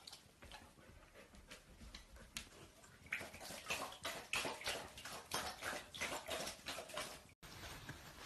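Water splashing in quick, irregular strokes, getting busier and louder about three seconds in, then cut off abruptly a little after seven seconds.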